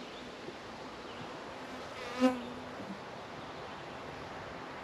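Honeybees buzzing at a hive entrance. About two seconds in, one bee flies close past the microphone, making a brief, loud buzz.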